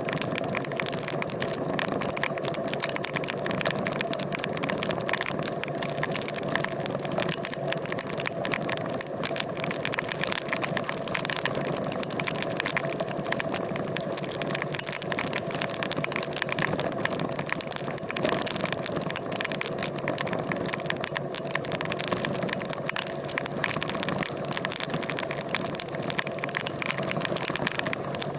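A vehicle engine running steadily with a constant rattle, and a few steady tones under it.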